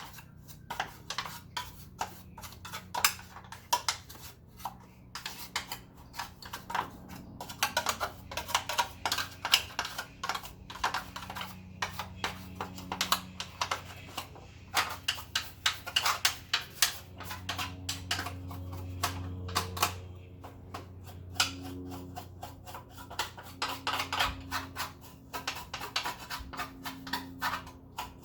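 Rapid, irregular clicking and scraping of small hard parts being handled, with a faint steady low hum in stretches.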